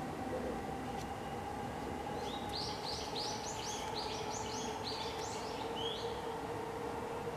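A bird singing a quick run of short chirping notes, about three or four a second, for a few seconds in the middle, over a steady hum.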